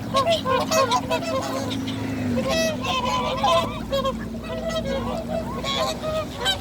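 A large flock of birds calling over one another while crowding to feed, a dense chorus of short, overlapping calls. A steady low hum underneath drops away about two and a half seconds in.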